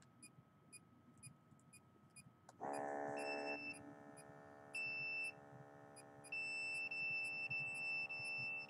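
An electronic device: a steady buzzing tone starts about two and a half seconds in, with high-pitched beeps over it. The beeps come twice briefly, then run almost continuously with short breaks near the end.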